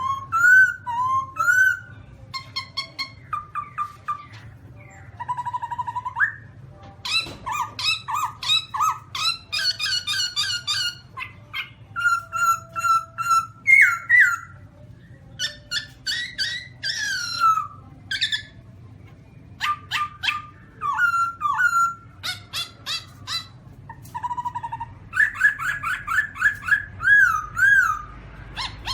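Black-throated laughingthrush calling: a varied string of loud slurred whistles, up-and-down glides and quick chattering runs of notes. Near the end comes a series of repeated slurred whistles.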